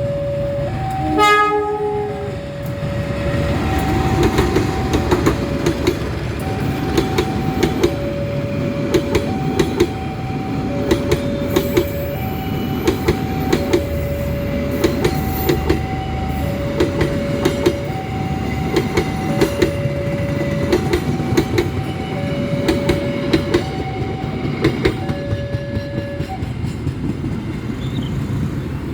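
A passing train: a short horn blast about a second in, then steel wheels clacking rhythmically over rail joints with a steady rumble. Throughout, a level-crossing warning alarm sounds a steady two-tone signal that alternates high and low, and it stops a few seconds before the end.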